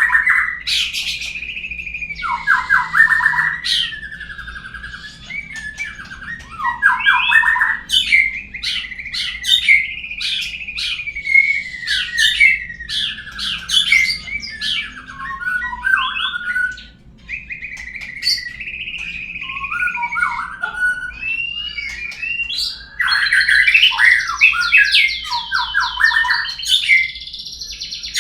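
Murai song played as a lure to set a caged murai singing: a long, varied run of clear whistles, fast trills and sharp rising notes. There is a brief lull a little past the middle, and the song is densest and loudest in the last few seconds.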